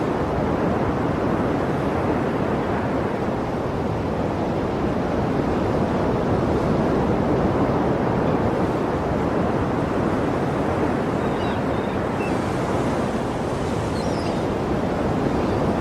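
Sea waves washing on the shore in a steady, unbroken rush of surf, swelling and easing only slightly.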